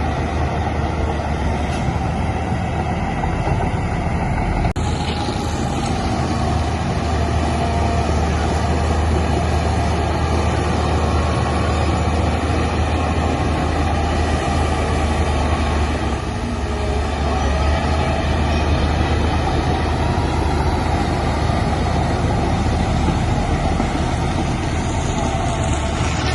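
Heavy diesel earthmoving machinery running steadily with a deep engine drone, with a short sharp click about five seconds in.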